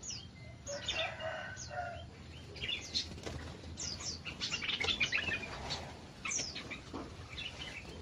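Small aviary birds chirping with many quick, falling high notes and the flutter of wings. A longer, lower call sounds about a second in.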